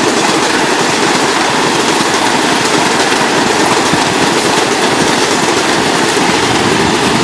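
Metro-North M8 electric multiple-unit commuter train passing, a loud steady rush of wheels on rails.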